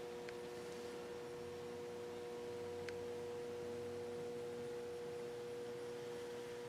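A faint, steady high hum holding one pitch, with a couple of light ticks.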